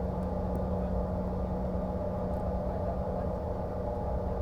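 Steady cabin noise of a Bombardier CRJ-550 regional jet in flight: a constant low rumble with an even drone from its rear-mounted turbofan engines.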